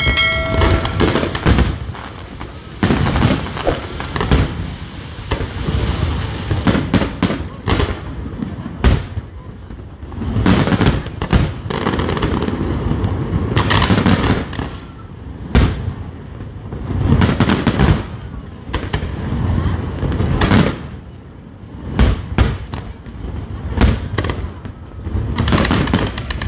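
Aerial fireworks bursting overhead: a long run of loud, sharp bangs, sometimes several close together and sometimes a second or two apart, each with a rumbling echo.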